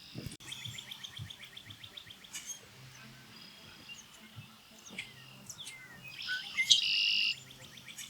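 Red-winged blackbird calls: a fast series of short high notes, scattered chirps, then a loud buzzy trill about six and a half seconds in.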